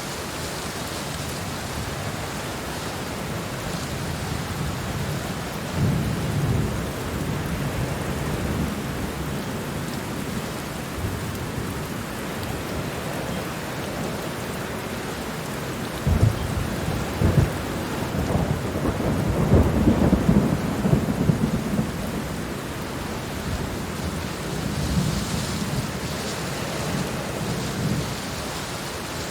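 Heavy rain falling steadily, with low rolling rumbles of thunder about six seconds in and again, louder, between about sixteen and twenty-two seconds in.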